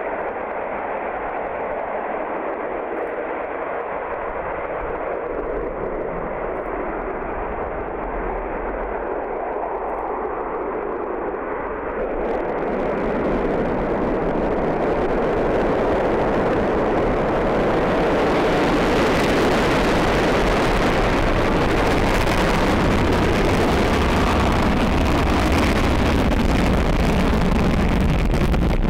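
Soyuz-2.1a rocket's kerosene-oxygen engines firing during launch: a steady, rushing noise with no distinct tone. About twelve seconds in it becomes louder and fuller, gaining a hiss at the top end.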